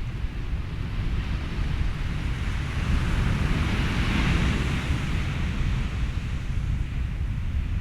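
Ocean surf and wind over a steady low rumble, with no pitched sounds. A wash of surf swells up in the middle and fades away again.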